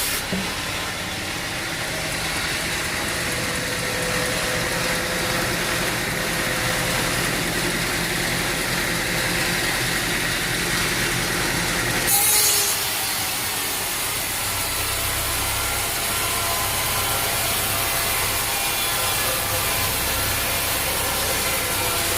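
Sawmill running on an oak log: a steady engine drone with a saw cutting wood. About halfway through there is one short, loud, sharp noise, after which the drone changes.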